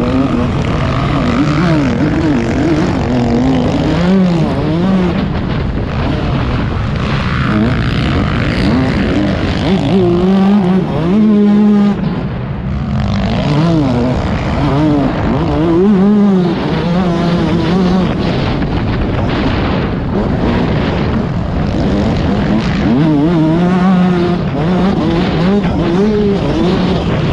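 Motocross bike engine ridden hard, its revs rising and falling again and again as the rider works the throttle and gears, with wind rushing over the onboard microphone.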